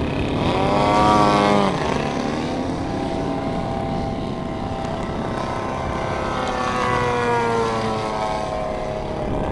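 Engines of giant-scale radio-controlled aerobatic planes running in flight, the pitch swelling up and falling back about a second in and gliding again around seven seconds in as they throttle and manoeuvre.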